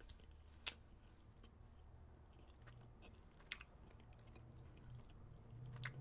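Faint chewing of a frozen pecan Snickers bar, with a few sharp clicks from the mouth about a second in, around the middle and near the end.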